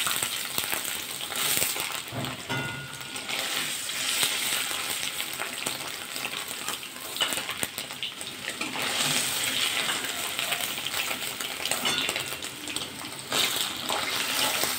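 Paneer cubes frying in oil and ghee in a metal kadai, sizzling steadily. A metal spatula turning the pieces adds a few clicks and scrapes.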